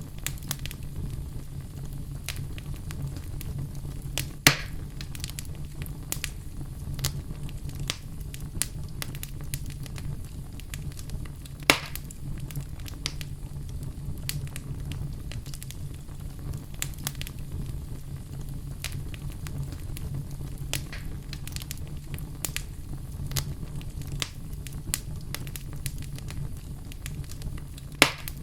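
Fire in a fireplace crackling steadily over a low rumble, with three louder sharp pops spread through it.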